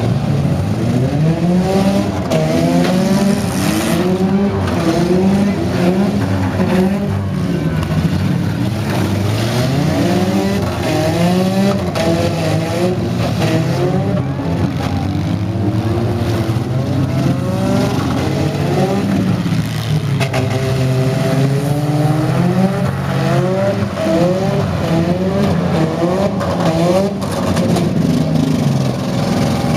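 The engines of several demolition-derby minivans and small pickup trucks revving hard all at once, each pitch rising and falling as the drivers throttle up and back off, over one another without a break.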